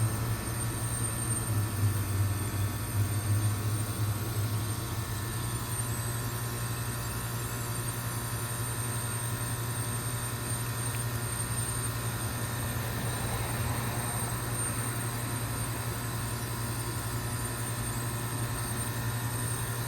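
2005 York Olympian (Latitude 10) heat pump outdoor unit running with a steady low hum, a little stronger in the first few seconds, over an even rushing noise.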